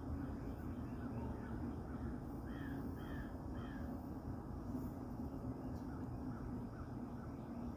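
A crow cawing repeatedly: a run of short, falling calls, the loudest three in quick succession around the middle, over a steady low rumble.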